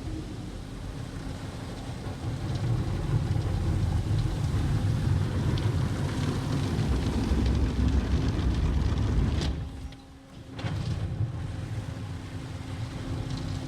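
Automatic car wash machinery working on the car, heard from inside the cabin: a steady low rumble and rush of spray and equipment with a faint hum. It grows louder a few seconds in, drops away briefly about ten seconds in, then picks up again.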